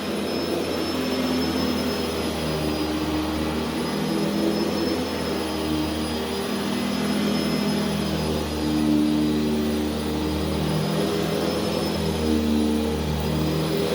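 Carpet-cleaning machine motor running steadily, with a high whine over a low hum.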